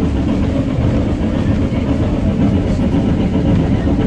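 Steady low rumble of a steam railway carriage running along the track, heard from inside the carriage.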